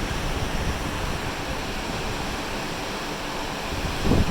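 Open-ocean waves and wind as a steady rushing noise. Near the end, a louder low gust of wind buffets the microphone.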